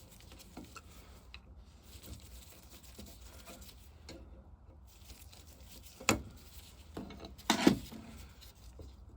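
Quiet tool-and-parts handling while the four screws on the top cover of a 1921 Lister TM vaporiser are undone, with a sharp click about six seconds in and a short, louder clatter about seven and a half seconds in.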